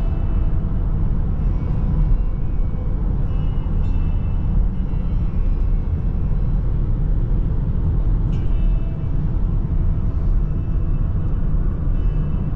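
Steady low rumble of a car's road and engine noise while driving, heard from inside the vehicle, with a few faint, brief high tones now and then.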